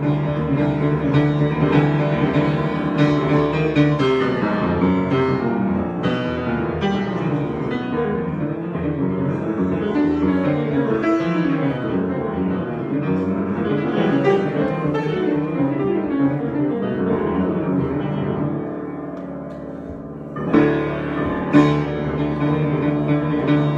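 Improvised solo music with piano-like notes moving over a steady held drone; it thins out briefly near the end, then picks up again with a couple of stronger notes.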